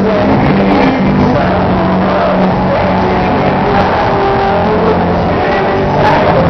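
Live band playing loud music with guitar.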